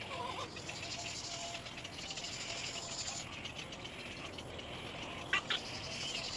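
Little egret chick giving a rapid, rattling begging chatter in stretches, with two short, sharp louder calls about five seconds in.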